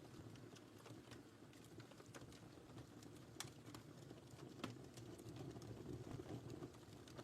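Wood fire crackling faintly: a low, steady rush of burning with scattered small pops. Two sharper pops come in the middle.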